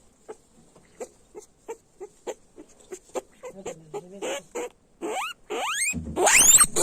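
Guinea pigs squealing: soft short squeaks at about three a second, then from about five seconds in, loud rising whistles repeated in quick succession.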